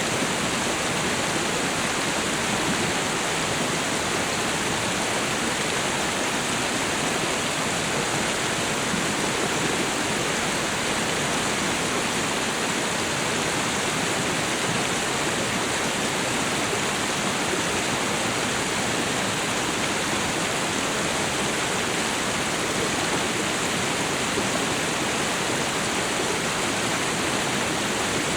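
Waterfall and river water pouring and rushing in a steady, unbroken wash of noise.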